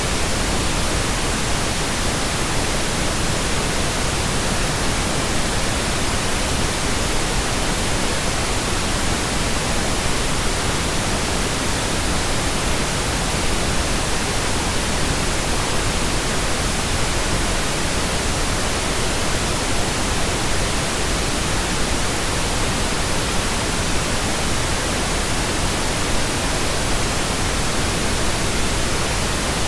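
Steady pink noise generated in Audacity: an even, unchanging hiss across all pitches.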